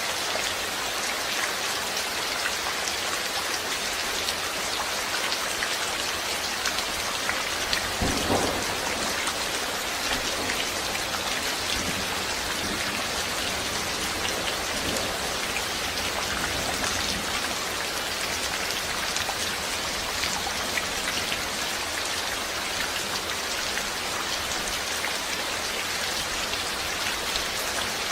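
Steady rain falling and pattering on surfaces, with a low rumble of thunder that starts suddenly about eight seconds in and fades over several seconds.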